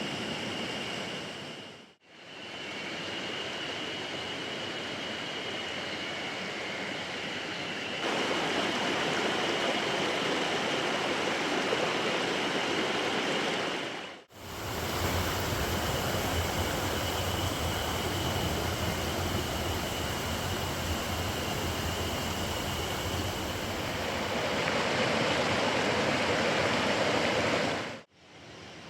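Mountain stream rushing over rocks: a steady noise of flowing water with a thin, steady high tone above it. The sound fades out briefly about two seconds in, again near the middle, and near the end, and is a little louder after each break.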